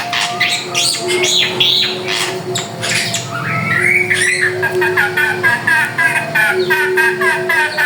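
Drongo (srigunting) singing a fast, varied string of harsh calls, chattering notes and whistled glides, going into a rapid run of repeated notes about three seconds in.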